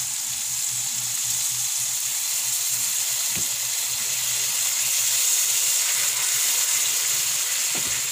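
Tuna steaks sizzling in butter and liquid seasoning in a nonstick frying pan: a steady frying hiss. Twice the metal tongs knock lightly as they turn the steaks.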